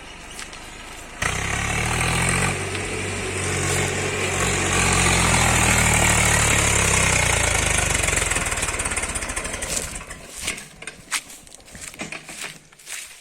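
Tractor diesel engine that comes in suddenly loud about a second in and runs hard for about eight seconds, then fades into scattered crackling and crunching.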